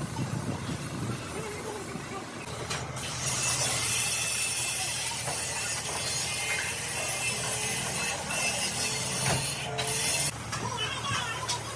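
A loud hiss of air starting about three seconds in and lasting about seven seconds, broken twice briefly, over a low steady rumble.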